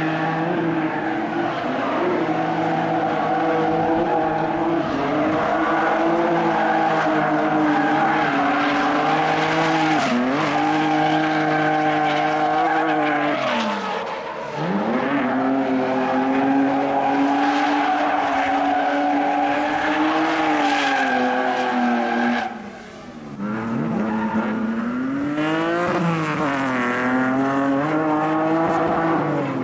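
Drift car engine held at high revs with tyres squealing through long slides. The revs dip and swoop several times, and the sound falls away briefly about 23 seconds in before climbing again.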